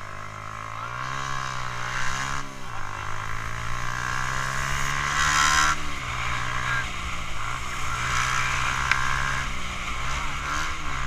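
Yamaha Jupiter MX underbone motorcycle's single-cylinder four-stroke engine through a DBS aftermarket exhaust, pulling hard: its pitch climbs and drops sharply at gear changes about two and a half and six seconds in, over a low wind rumble.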